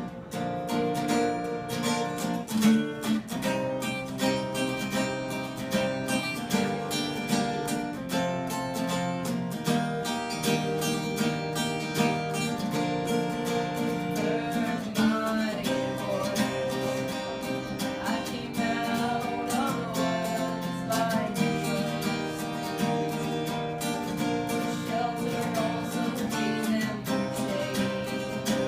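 Acoustic guitar strummed steadily, with a voice singing along in places.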